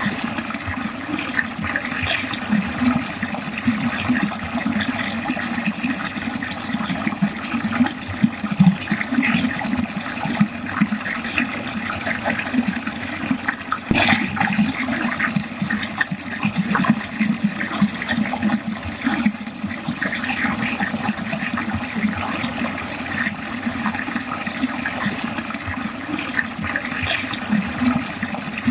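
Water running steadily down a drain, a continuous gurgling flow with a brief sharp click about halfway through.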